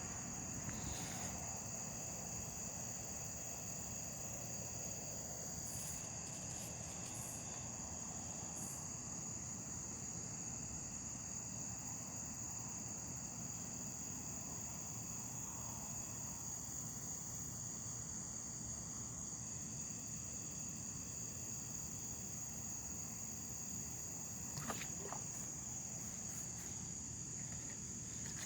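Steady, unbroken high-pitched insect chorus, with a low steady background rumble and a few faint clicks.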